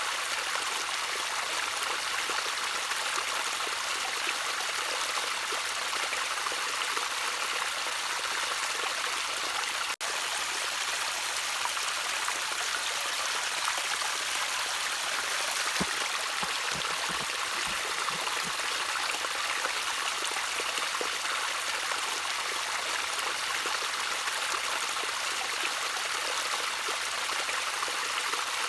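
Small stream of water trickling and splashing steadily, an even rushing hiss with no pauses.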